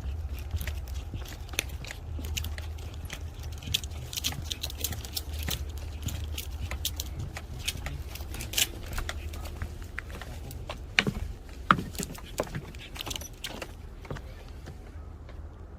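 Footsteps on a walking trail: irregular light clicks and rattles over a steady low rumble, with two sharper clicks about eleven and twelve seconds in.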